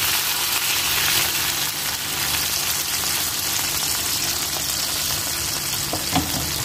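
Crab pieces sizzling in a hot wok as fresh milk is poured over them: a steady frying hiss.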